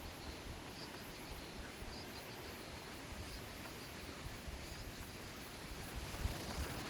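Outdoor ambience: a steady, even rushing noise, with low buffeting thumps on the microphone near the end.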